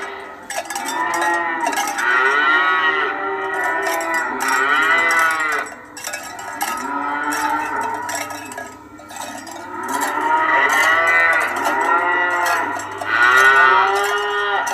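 Herd of cows mooing, several long calls overlapping one after another, with a rapid clinking running underneath.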